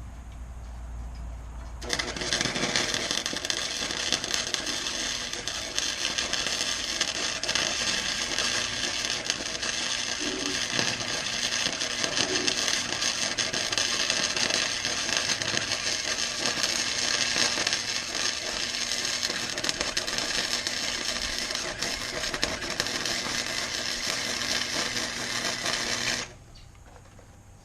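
Harbor Freight welder's arc crackling steadily as a bead is laid, starting about two seconds in and cutting off suddenly just before the end.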